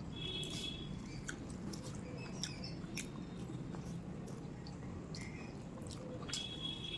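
Close-miked chewing of rice and curry: soft wet mouth clicks and smacks, with a short high squeak at the start and another near the end.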